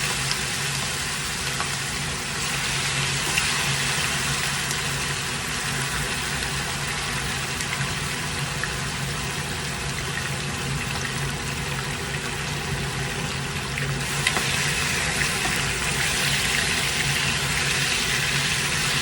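Steady sizzling of seasoned chicken frying in hot oil in a pot, with a low steady hum underneath.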